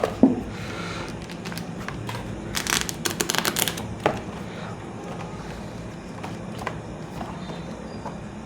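Rustling and crinkling from a large book being handled, with a dense run of crinkles from about two and a half to four seconds in and a few lone clicks.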